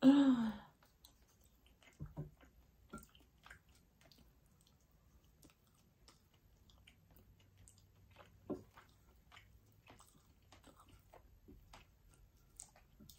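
Faint chewing of food, with scattered soft clicks and taps of a wooden fork against a ceramic plate; one louder tap about eight and a half seconds in.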